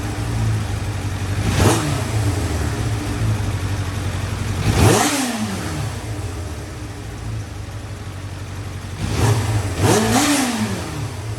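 Motorcycle engine idling and blipped four times, the last two close together; after each blip the revs fall back slowly. The owner takes this hanging idle for a sign of a vacuum leak.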